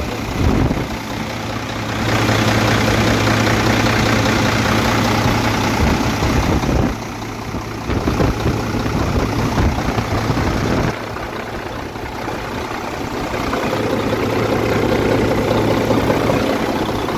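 Diesel engine of a semi truck idling with a steady low hum, with louder stretches of rushing noise that come and go.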